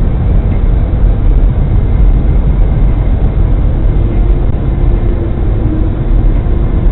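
Steady low rumble of a vehicle driving, recorded by a dashcam microphone, with no impact or crash in it. A faint steady hum rides over it for a couple of seconds from about four seconds in.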